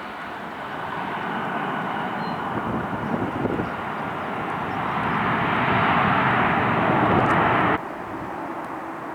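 Jet engine noise from a Delta Connection Embraer E175 building gradually, then cutting off abruptly about three-quarters of the way through, leaving quieter airport background noise with a faint steady hum.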